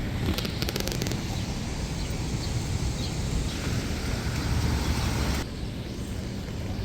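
City street traffic noise: a steady rumble and hiss of passing vehicles, swelling a little before dropping off sharply about five and a half seconds in. A quick run of small clicks comes near the start.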